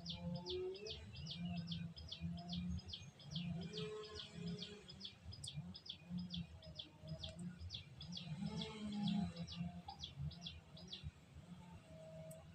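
A bird calling a long, even series of short, high chirps, about four a second, which stops near the end, over a low rumble.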